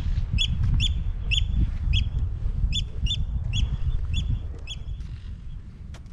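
A bird calling over and over in short, sharp single notes, about two a second, that pause a little past the middle and start again at the end. Under it, a steady low rumble of wind on the microphone.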